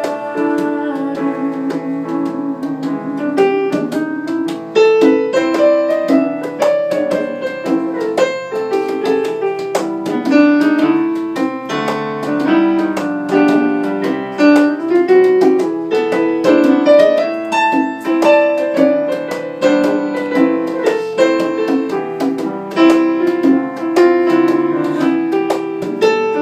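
Piano or keyboard playing an instrumental break in a slow pop ballad: a moving melody over held chords, with no voice.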